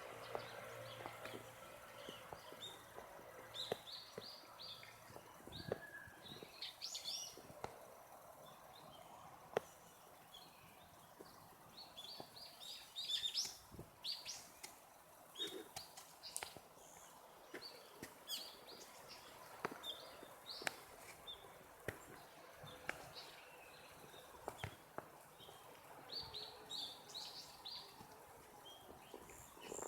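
Small songbirds chirping and twittering in quick clusters of short high notes, on and off throughout, with a few sharp clicks between them.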